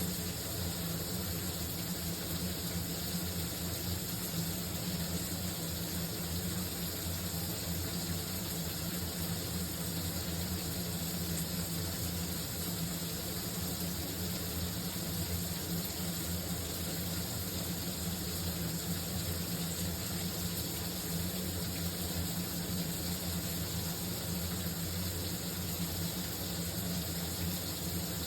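Shower running steadily: an even hiss of water spray with a steady low hum beneath it.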